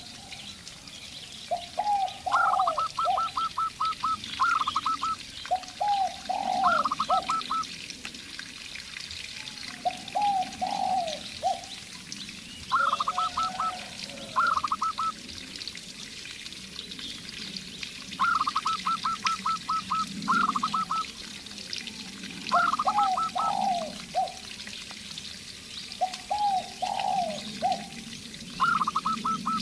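A zebra dove and a spotted dove cooing back and forth. One call type is quick runs of short, higher notes; the other is lower coos in groups of three or four. The bouts recur every few seconds and often overlap.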